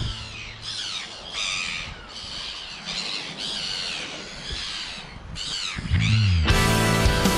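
Birds calling over and over in short calls that rise and fall in pitch. Background music with a heavy beat comes back in sharply about six and a half seconds in.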